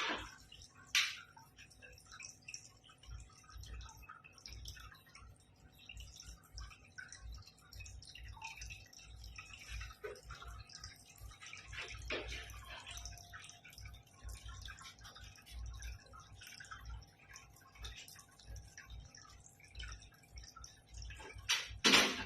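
Water dripping and trickling, with a faint steady hum underneath. There is a sharp knock about a second in and a couple more near the end.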